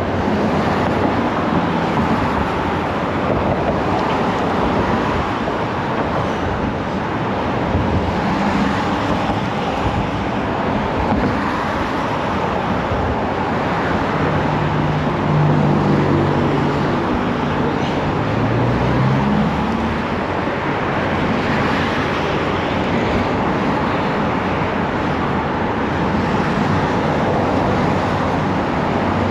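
Steady road traffic and wind noise while riding a bicycle in city traffic. A few pitched motor hums pass past the middle, one rising in pitch.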